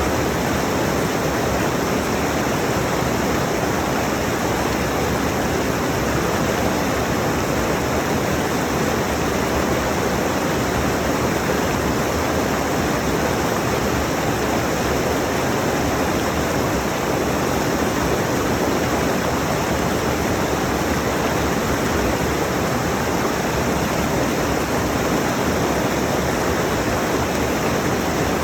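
Rushing mountain stream: water pouring over rocks in a steady, even rush with no breaks or distinct splashes.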